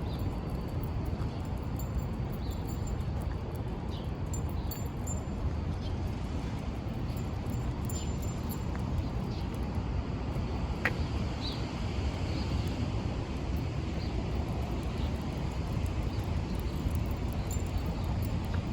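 City street ambience: a steady low rumble with faint, short high chirps scattered through it and one sharp click about eleven seconds in.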